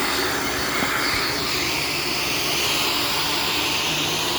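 Shark Stratos upright vacuum cleaner running steadily, a loud motor-and-airflow hiss; its high band drops slightly lower about a second and a half in.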